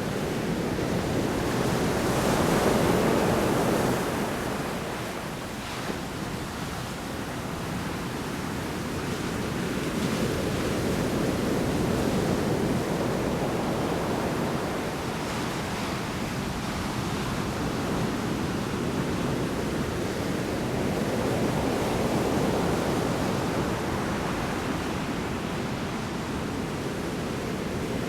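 Large storm waves breaking on a shore: a continuous rush of surf that swells and ebbs slowly, with the loudest surge about three seconds in and weaker swells later.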